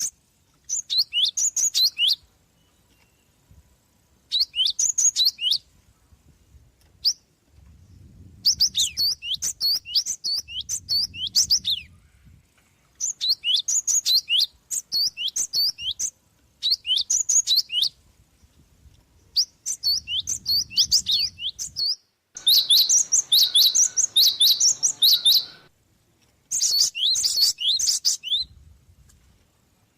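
Gelatik (Java sparrow) chirping in quick bouts of high, sharp notes, each bout a second or two long with short pauses between, the longest and densest run starting about two-thirds of the way in. A faint low rumble sits under a few of the bouts.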